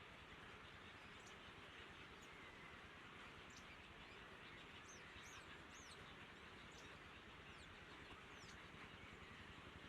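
Faint, high, thin bird chirps, scattered, with a quick run of several about five to six seconds in, over a steady low hiss.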